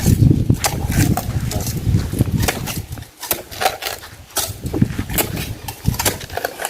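Firewood being handled and stacked for a bonfire: irregular knocks and clicks of wood over a low rumble of handling or wind noise, the rumble easing about halfway through.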